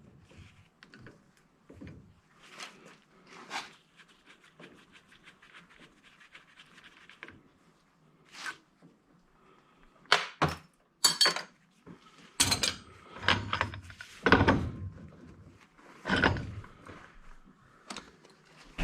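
Irregular clunks and knocks of tools and metal parts being handled while an old electric angle grinder is taken apart. There are a few light knocks and a brief run of rapid ticking at first, then louder strikes in the second half.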